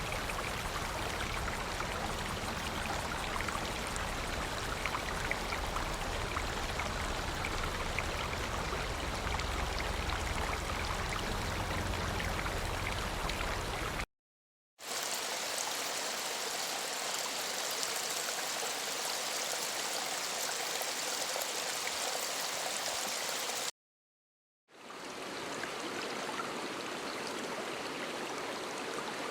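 Flowing water of a stream or river, a steady rushing, in three separate recordings one after another with a short silent gap between each. The first has a deep rumble under the rush, the second is brighter and hissier, and the third fades in.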